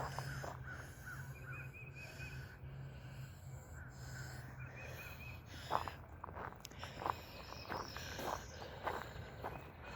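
Footsteps of someone walking outdoors, falling about twice a second from around the middle on, with faint birds chirping in short trills in the first half.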